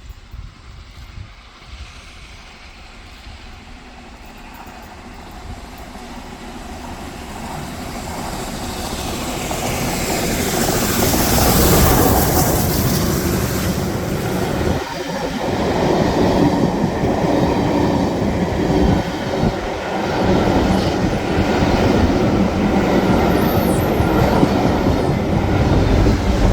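Steam locomotive Tornado, a Peppercorn A1 class 4-6-2, approaching and passing at speed with its train, growing loud until about twelve seconds in. Its coaches then run past with a continuous clickety-clack of wheels over the rail joints.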